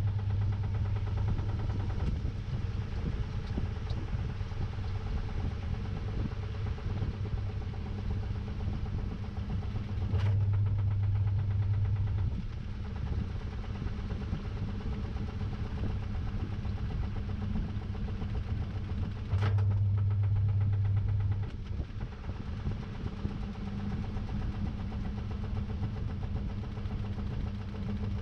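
Samsung top-load washing machine's motor humming in short bursts of about two seconds, each starting with a click and coming every nine to ten seconds, over a steady churning background inside the drum.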